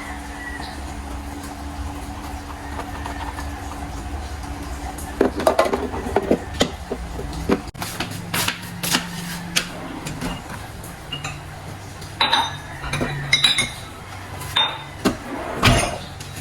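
Kitchen dishes and utensils clinking and knocking in a quick irregular series, over a steady low hum that stops about halfway through.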